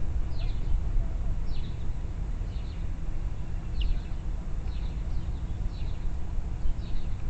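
A songbird giving short, high, falling chirps, about one a second, over a steady low rumble.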